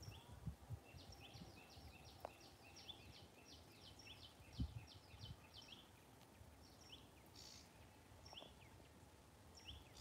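Faint bird calls: a run of short high chirps, about three a second, for several seconds, then a few scattered calls, over low bumps of wind or handling noise.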